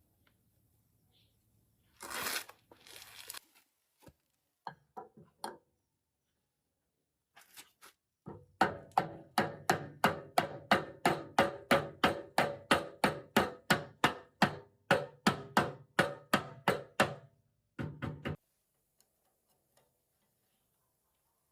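A rapid, even series of about thirty sharp knocks, about three a second, over a low steady hum, after a short scraping rustle.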